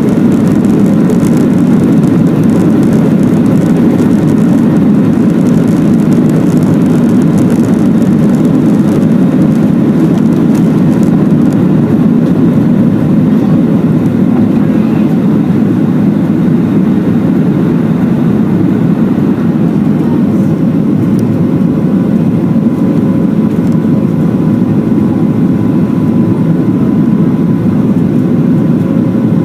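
Boeing 737-700 jet engines and airflow heard from inside the passenger cabin as a loud, steady, deep rush with a faint steady whine on top.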